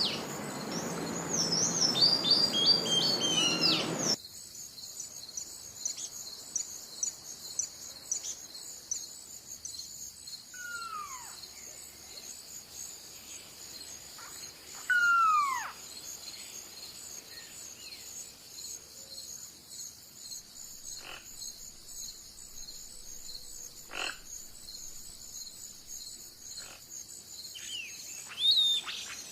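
Outdoor nature ambience. Birds chirp densely for the first four seconds, then it cuts abruptly to a quieter scene with a steady high-pitched animal chorus. Two loud falling whistled calls come about ten and fifteen seconds in, and a few faint clicks follow later.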